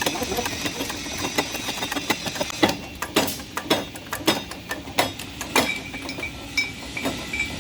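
Metal knocks and clinks from hand work on a car's rear wheel hub bearing: a quick clatter, then a string of separate sharp knocks with a brief ring, about one every half second to a second.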